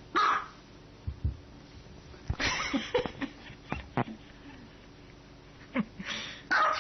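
A dog barking in short bursts: one bark at the start, a cluster about two and a half seconds in, and another near the end, with a few sharp knocks in between.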